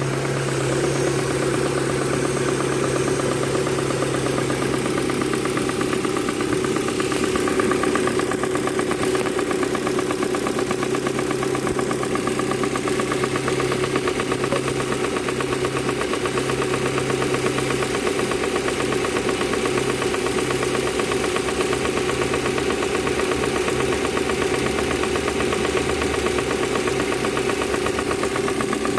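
Proton Campro four-cylinder petrol engine idling steadily, with no revving.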